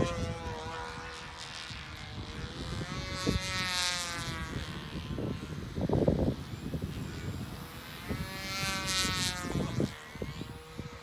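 Model aeroplane's motor and propeller buzzing, the pitch sliding up and down and swelling twice as it passes close. Wind buffets the microphone with low rumbles.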